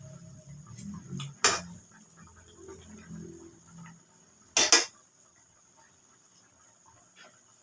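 Metal cooking utensil clanking against cookware: one sharp clank about a second and a half in and a quick double clank near the middle.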